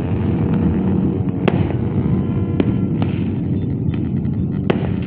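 Dozens of motorcycles with open brong exhausts revving together in a loud, continuous din, broken by about three sharp bangs.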